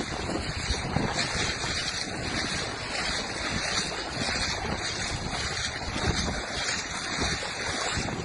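Steady rushing noise of storm wind buffeting the microphone, with no clear engine or voice.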